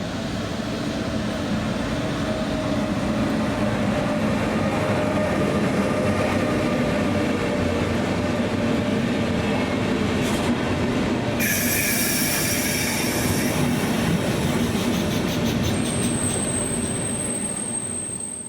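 Electric-locomotive-hauled passenger train running on the line, with a steady rumble of wheels on rail. About two-thirds in, shrill wheel squeal sets in, and near the end a thin high whine sounds over the rumble.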